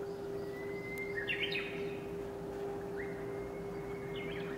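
A bird singing outside: two phrases, each a long steady whistled note ending in a quick warbled flourish, over a steady hum.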